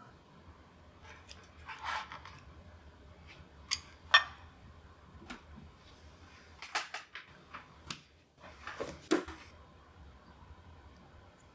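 A series of light clicks, knocks and clinks from objects being handled, with sharp hits about four seconds in and again about nine seconds in.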